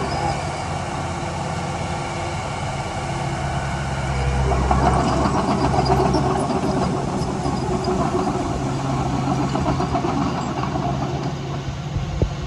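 Heavy diesel earthmoving machinery engine running steadily. It works harder and louder for a couple of seconds about five seconds in, and there is one sharp knock near the end.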